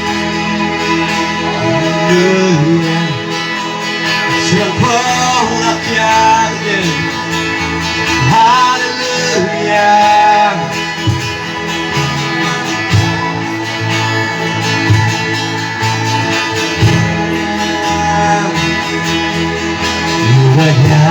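Worship band music: a passage without sung words, a melody line over steady sustained chords, with guitar.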